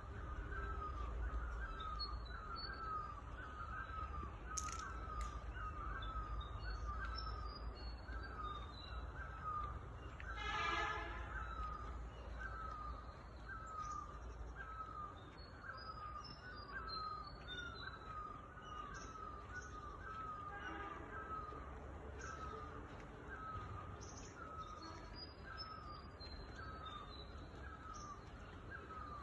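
Early-morning birdsong: one bird repeats the same short chirp over and over, about one and a half times a second, with fainter high twittering from other birds. One louder, harsher call stands out about ten seconds in.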